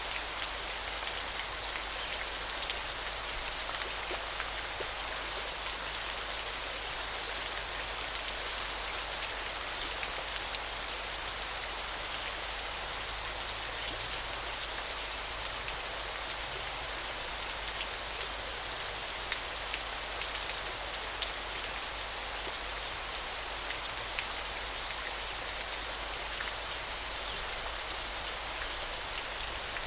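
Steady hiss of running water. Over it, a high thin call of one steady pitch repeats in phrases a second or two long, stopping near the end.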